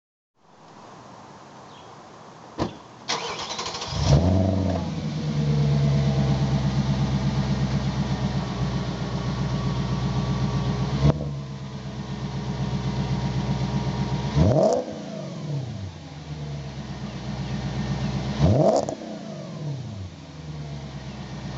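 2004 Audi S4's 4.2-litre V8 through a custom stainless cat-back exhaust with X-pipe and Jones mufflers. The engine is cranked and catches with a short flare in revs, settles into a steady idle, and is then blipped twice, the revs rising and falling each time.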